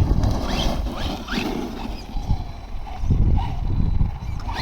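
Electric RC monster truck's motor revving in several short rising whines as it is punched for backflips, over a steady low rumble.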